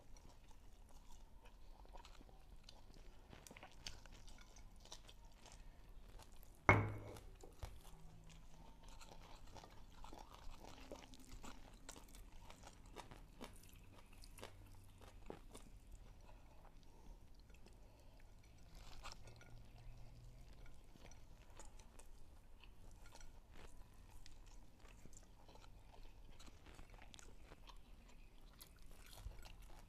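Close-miked chewing and soft crunching of two people eating rice, fried fish and stir-fried water spinach by hand, with many small clicks of fingers on plates and a stone mortar. One loud thump about seven seconds in.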